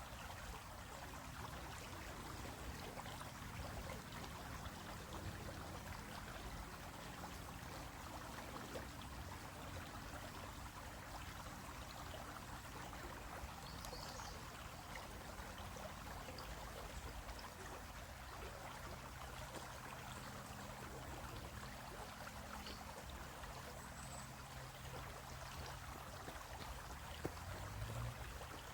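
Stream water flowing and trickling over rocks, a steady, even rush.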